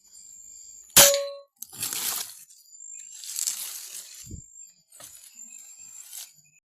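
A single sharp air-rifle shot about a second in, with a short ringing tone after it, followed by several bursts of rustling noise.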